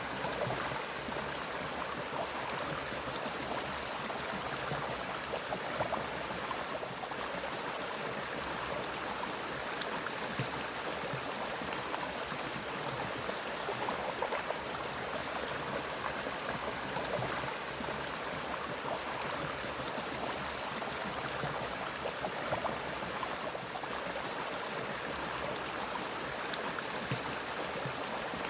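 Mountain stream flowing steadily, with small gurgles now and then. A constant high-pitched tone sounds above the water.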